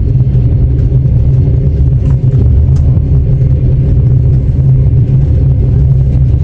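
Inside a moving Russian Railways passenger carriage: the train's steady low rumble, with a few faint clicks about two and three seconds in.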